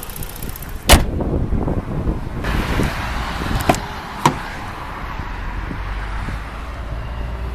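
A panel on a 2013 Ford Taurus slammed shut with a loud bang about a second in, followed by two sharp latch-like clicks, over a steady low rumble from the car.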